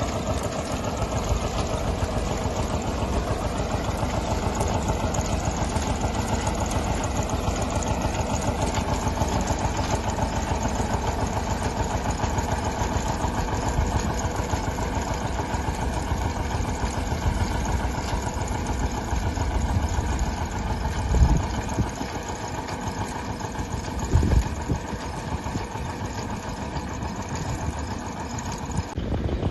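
Tractor engine running steadily, with two loud knocks about three seconds apart past the middle.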